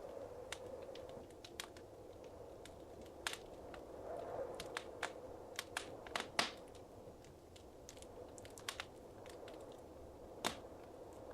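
Wood fire burning in a fireplace, crackling with irregular sharp pops over a soft steady roar.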